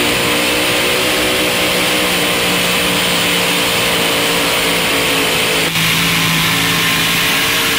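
Pulling-tractor engine running at high, steady revs under full throttle. The sound changes abruptly about six seconds in.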